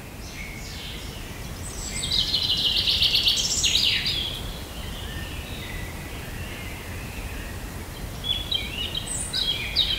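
Birds chirping and trilling over a steady low background rumble, with one burst of calls about two to four seconds in and another near the end.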